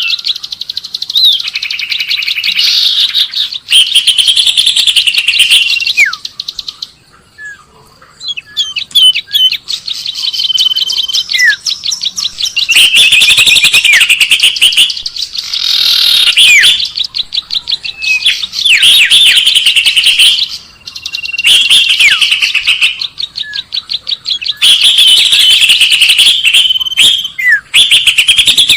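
Bird-lure recording of small birds chirping and trilling: fast, high chirps, short whistles and downward sweeps in loud runs of several seconds, with a brief lull about seven seconds in.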